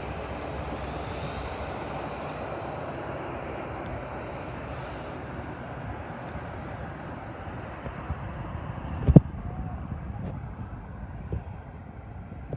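Airliner engine noise from a passing aircraft: a steady rushing roar that slowly fades. A single sharp low thump comes about nine seconds in.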